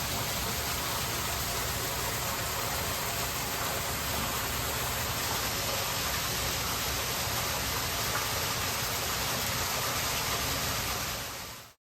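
Steady rush of falling water, fading out quickly near the end.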